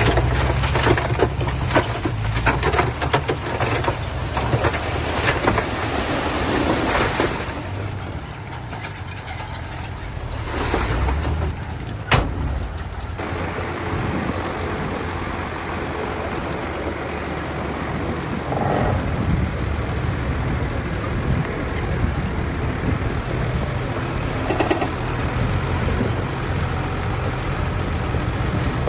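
Heavy diesel construction machinery at work: a low engine rumble throughout, with rattling and clanking over roughly the first seven seconds, a single sharp knock about twelve seconds in, and two short hisses later on.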